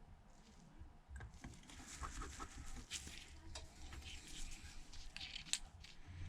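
Faint, scattered clicks and ticks of small metal tools, tweezers and a precision screwdriver, setting the iPhone XS Max's internal cover plates and tiny screws back in place, with the sharpest click about five and a half seconds in. A steady low hum runs underneath.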